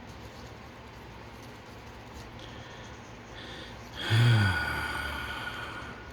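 A man's loud sigh with a low, falling groan about four seconds in, fading out over the next two seconds.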